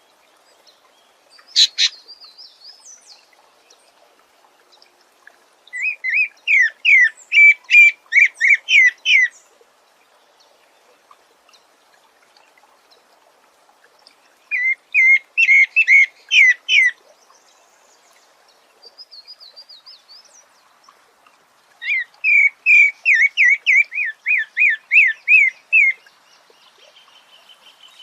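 A sabiá singing: three bursts of quick repeated whistled notes, each a few seconds long, with a short sharp call just before the first.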